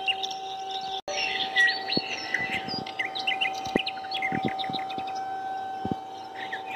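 Several small birds chirping and twittering in quick, varied calls, over a steady high-pitched tone. The sound cuts out for a split second about a second in.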